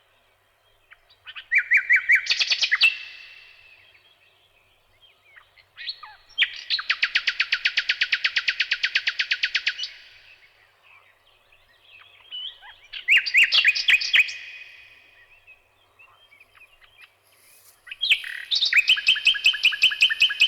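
A songbird singing in separate phrases with pauses between them: a short phrase, then a long, fast, even trill, then two more short phrases, the last one rich and warbling.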